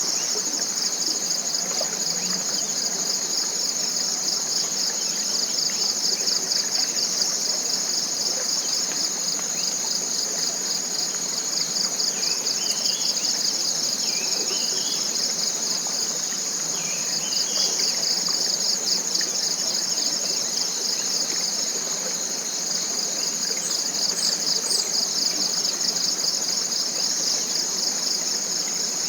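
Dense forest insect chorus: a continuous high-pitched, fast-pulsing trill. A bird gives three short rising calls near the middle.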